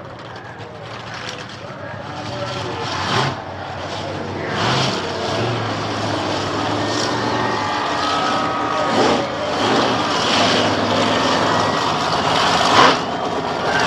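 Monster truck engine running and revving, getting louder over the stretch, with several short louder surges.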